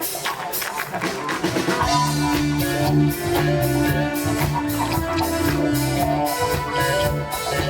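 Instrumental funk band music: a steady beat of sharp percussion strokes with guitar, joined about two seconds in by a bass line and the full drum kit.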